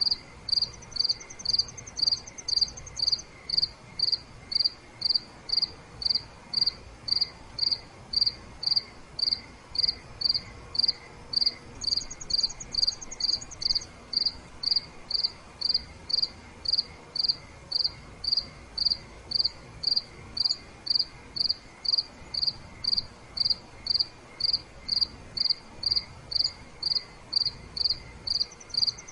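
Crickets chirping at night: one cricket chirps steadily about twice a second. A second, higher and faster trill joins for a couple of seconds three times: just after the start, about halfway through, and again at the end.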